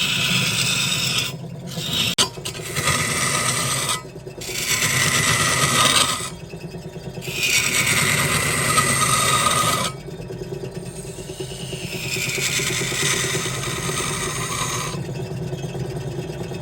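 Wood lathe running while a turning tool cuts and scrapes the spinning wood. The hissing cut stops and starts again several times over a steady low motor hum.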